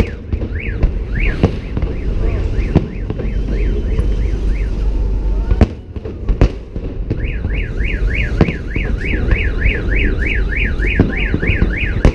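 Car alarm wailing in a fast up-and-down warble, about three cycles a second, fainter at first and louder from about seven seconds in. Sharp firework bangs go off now and then over a steady low rumble.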